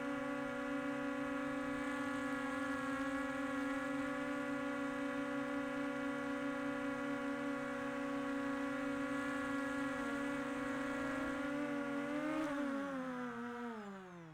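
Quadcopter drone's propellers humming at a steady pitch, then winding down near the end, the pitch falling as the motors stop.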